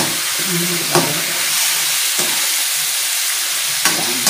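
Pork cubes with onion, garlic and chili sizzling in hot oil in a pan as they are stirred, with a spatula clacking sharply against the pan a few times.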